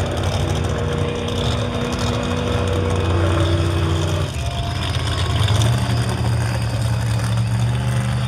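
Monster truck engines running at a steady idle, the pitch of the engine note shifting about four seconds in and again a little later.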